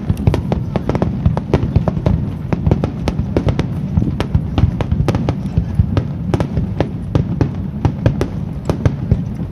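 Fireworks display in full barrage: several sharp cracks and bangs a second over a continuous low rumble of shell bursts.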